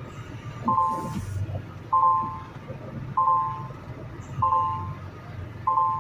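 Truck back-up alarm beeping, five evenly spaced beeps about a second and a quarter apart, over an engine's low running.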